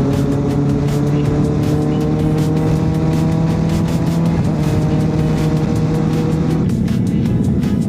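Honda CB1100's air-cooled inline-four engine pulling under throttle while riding, its pitch slowly rising with a brief dip about four seconds in. Near the end the engine note drops away as the throttle closes, leaving the rush of wind.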